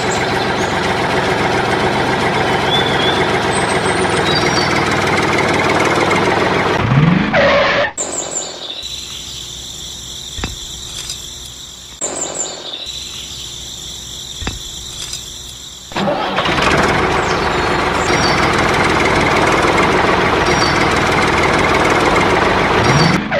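Tractor engine running loudly, with a short rising rev about seven seconds in. It then drops to a quieter stretch with a few clicks and a faint high whine, and runs loudly again from about sixteen seconds.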